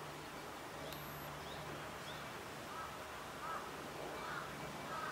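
Outdoor background noise with a faint low hum, and from about halfway through a series of short, faint bird calls repeating every half second or so.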